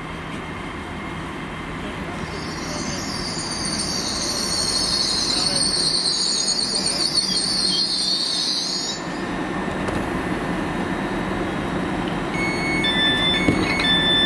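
GWR Class 800 train running into the platform and slowing, with a high-pitched squeal lasting several seconds as it brakes. Near the end, a pattern of short repeated electronic beeps starts.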